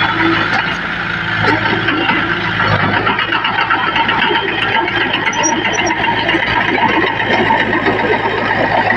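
Small bulldozer's diesel engine running steadily, with dense continuous clattering over the engine drone.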